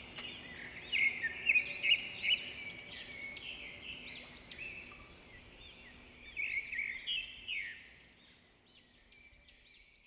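Birdsong: many small birds chirping and twittering in quick, overlapping high calls, loudest early on and fading, then stopping abruptly near the end.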